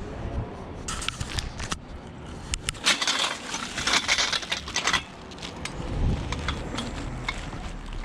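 Small pieces of scrap metal being picked up and handled, clinking and clattering, with a dense spell of rattling and scraping from about three to five seconds in.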